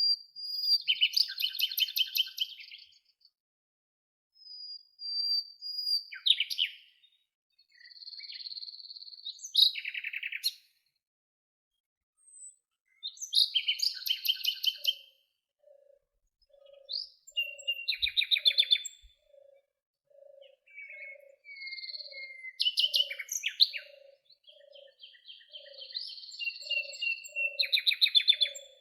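Songbirds singing in separate high, quick trilled and whistled phrases with short pauses between them. From about halfway, a second bird repeats a low short note about twice a second underneath.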